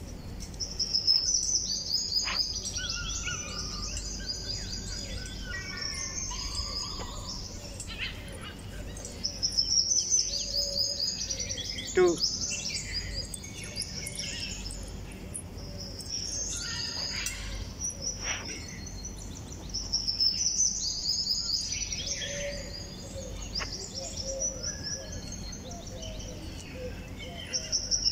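Several birds chirping and singing: clusters of short, high chirps and trills recur every few seconds. A steady low hum and a few sharp clicks sit underneath.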